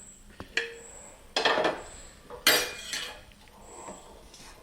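Metal spoon knocking and scraping against a cooking pan: a couple of short clinks, then two louder scrapes about a second and a half and two and a half seconds in.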